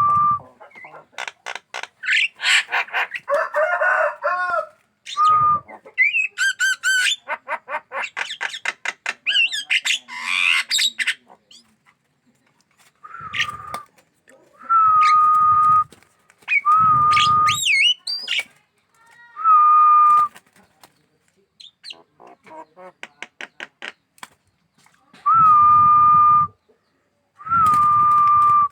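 Javan myna singing: a fast, varied run of clicks, rattles and whistled glides, then a string of harsh, flat-pitched calls about a second long, repeated with short gaps in the second half.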